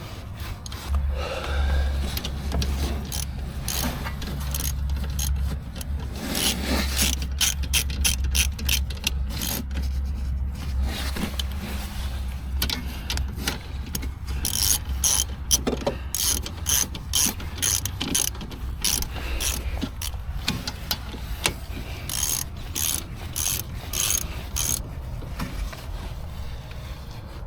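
Ratchet wrench clicking in quick runs of short clicks, with pauses between, over a low steady hum that fades out about two-thirds of the way through.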